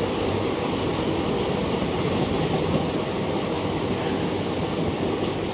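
Train running along the track: a steady, heavy rumble of the railway carriages, with brief faint high-pitched squeals now and then.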